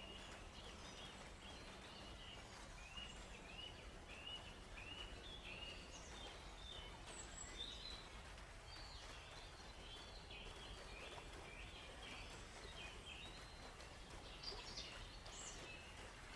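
Songbirds chirping: a run of short, repeated chirps, then several birds' more varied calls, some higher-pitched near the end, over a faint steady background hiss.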